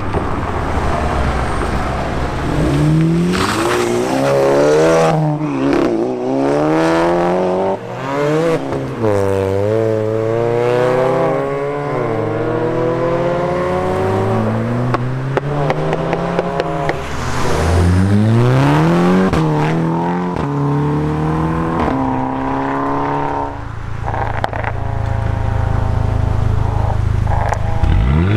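Hot hatchbacks and sports cars accelerating hard one after another, each engine note climbing steeply through the revs and dropping at the gear changes, with a few sharp exhaust crackles. Near the end a Mercedes-AMG A45 holds a steady note, then revs sharply up as it launches.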